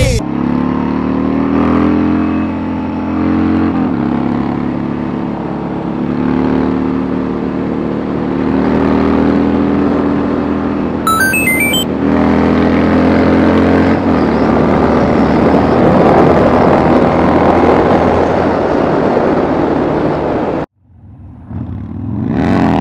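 Motorcycle engine running at road speed with heavy wind rush, its note stepping up and down with throttle and gear changes. About halfway there is a brief run of high beeping tones. Near the end the sound cuts out abruptly and fades back in.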